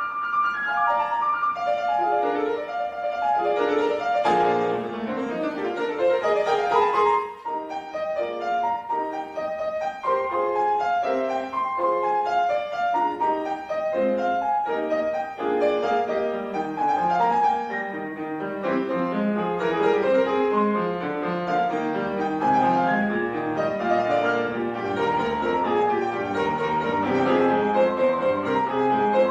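Instrumental music led by piano, playing a continuous run of notes, with a bowed string part alongside.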